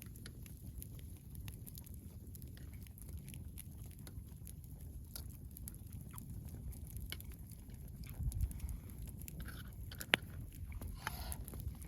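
Campfire crackling: irregular sharp pops and ticks over a low steady rumble, with one louder pop about ten seconds in.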